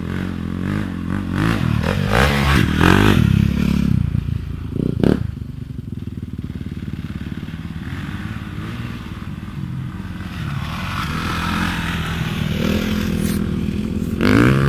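Motocross motorcycle engine running and revving, its pitch rising and falling, loudest a few seconds in, with a short sharp knock about five seconds in.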